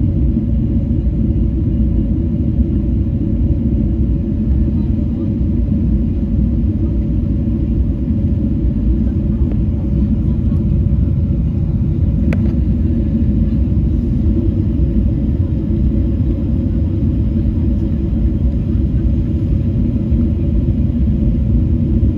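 Cabin noise of a Boeing 777-300 on final approach: a steady low rumble of engines and airflow with a steady hum, and a single brief click about twelve seconds in.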